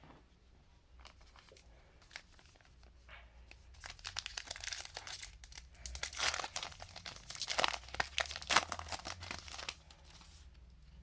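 Foil wrapper of a Panini Diamond Kings baseball card pack being torn open and crinkled by hand, a few light clicks and then dense crackling and tearing for about six seconds, ending a little before the end.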